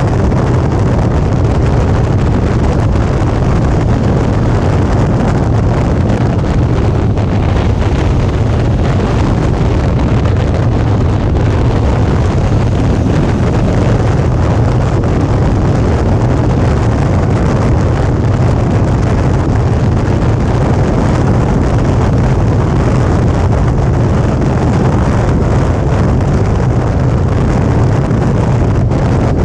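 Suzuki V-Strom 650's V-twin engine running steadily while the motorcycle is under way, mixed with heavy wind noise on the microphone.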